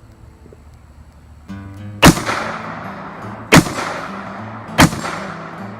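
Three rifle shots from a 6.8 mm AR-style rifle, about one and a half seconds apart, each trailing off in a decaying echo. Acoustic guitar music plays underneath.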